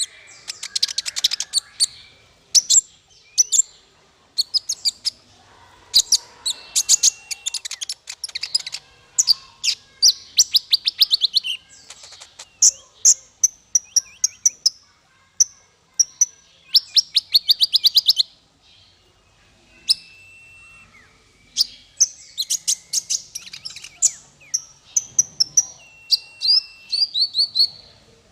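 Songbird singing in phrases of rapid high chattering trills and fast note strings, broken by short pauses and a few brief steady whistled notes.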